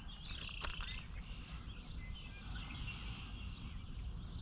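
Small birds chirping, a few short calls, over a steady low background rumble.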